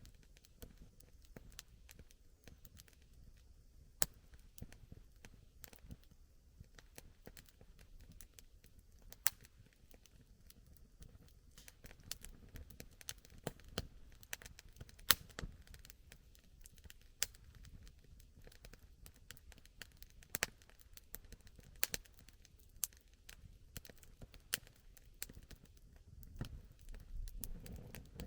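Wood campfire crackling: irregular sharp pops and snaps, a few louder than the rest, over a faint low rumble.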